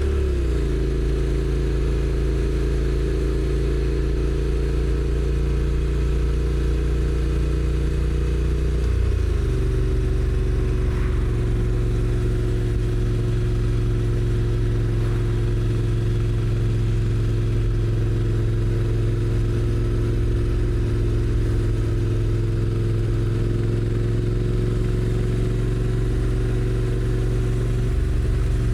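Honda NC750X's parallel-twin engine running on the move with a steady note. Twice, just after the start and about nine seconds in, the pitch drops quickly and then holds, as the DCT gearbox shifts up.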